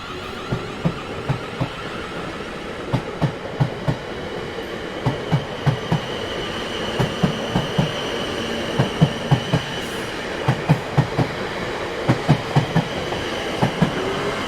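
Train rolling past, its wheels clacking over rail joints in repeated quick groups of beats over a steady rumble, with a faint high wheel squeal in the middle.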